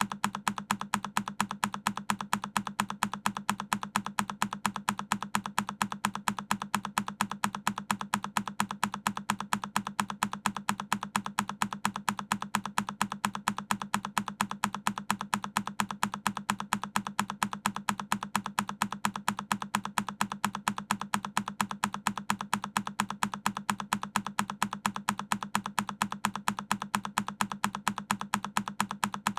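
A single key on a Keychron K10 mechanical keyboard pressed over and over at an even, rapid rate, each press a sharp click.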